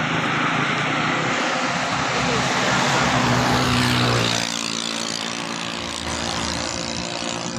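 Rushing river water with an engine running nearby; the engine's pitch and level drop about four seconds in.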